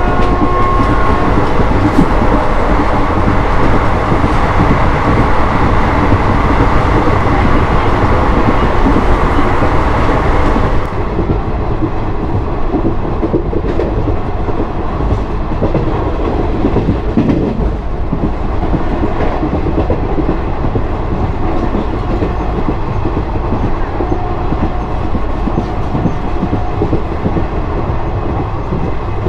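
Running noise of a moving Indian Railways passenger express heard from its open coach door: wheels rolling on the track. About eleven seconds in, the sound drops a little and turns duller.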